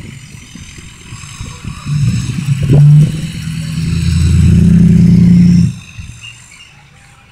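Truck engine revved hard twice: a short burst about two seconds in, then a longer rev that builds and is held until it drops off suddenly near six seconds.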